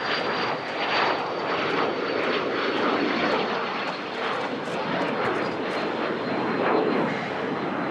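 Aircraft engine noise from a plane on the runway: a steady, rough, fluttering rush with a thin high whine that slowly falls in pitch.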